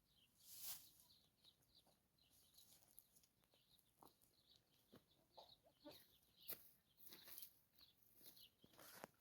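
Faint, repeated high bird chirps with a few soft clicks and rustles, overall very quiet.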